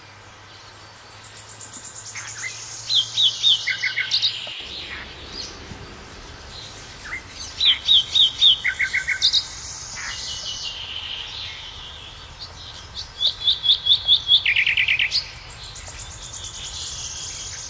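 Forest birds singing: one bird repeats a loud phrase of quick whistled notes that step down in pitch, three times about five seconds apart, over a steady high twittering from other birds.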